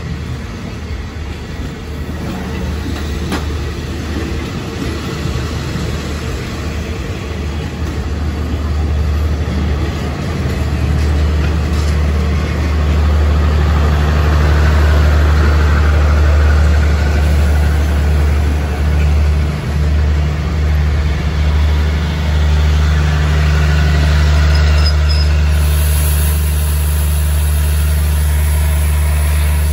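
Passenger train on the next track rolling slowly past a halted train, with a low, steady diesel drone and rumble that grows louder over the first half and then holds.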